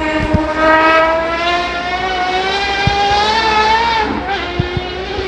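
Racing car engine accelerating hard, its pitch climbing steadily through one gear, then an upshift about four seconds in, after which it pulls on at a lower pitch.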